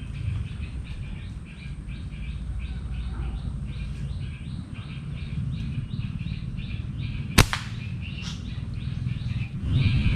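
A slingshot shot: one sharp snap about seven seconds in, followed by a fainter knock. Under it runs a low steady rumble and a short high chirp repeating about three times a second.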